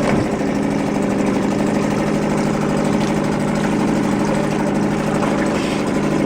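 Suzuki 2.5 hp four-stroke single-cylinder outboard motor idling steadily. A brief clunk at the very start as it is shifted into forward gear, after which its note settles slightly lower.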